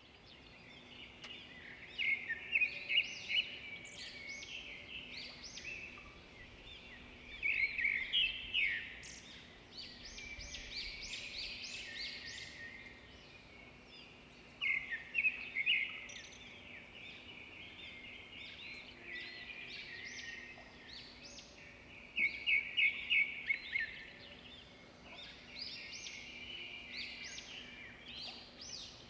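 Small birds chirping, in loud bursts of rapid repeated short notes every several seconds, with fainter scattered chirps between the bursts.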